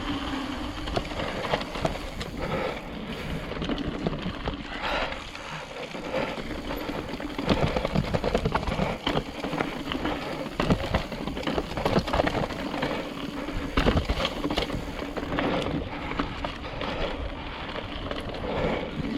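Mountain bike riding down a rough dirt trail: tyres crunching over dirt and rocks, with frequent knocks and rattles from the bike over bumps.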